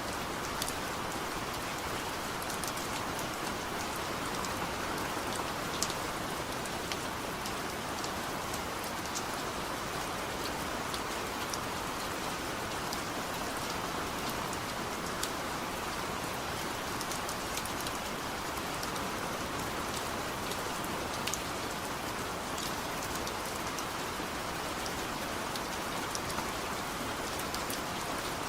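Heavy rain falling steadily as an even hiss, with scattered sharp ticks of individual drops hitting a surface.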